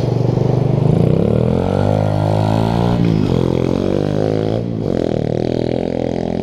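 Small dirt-bike engine running and being revved, its pitch rising and falling several times, with a brief drop nearly five seconds in.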